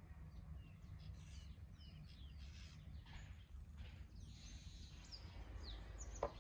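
Quiet outdoor ambience: small birds chirping now and then over a low steady background rumble, with a single click near the end.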